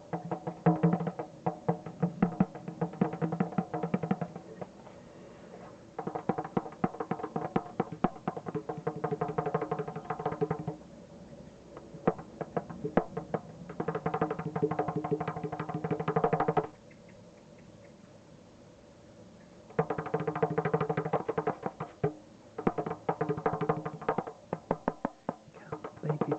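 Hand drumming: fast runs of strikes over a ringing, pitched tone, played in several stretches of a few seconds with short pauses between them, the longest pause a little past halfway.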